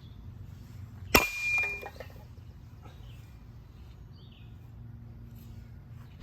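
A baseball bat strikes a running ceiling fan with a sharp metallic clang about a second in, ringing briefly and followed by a short rattle; a second clang comes at the very end. A steady low hum runs underneath, from the fan's motor running on high.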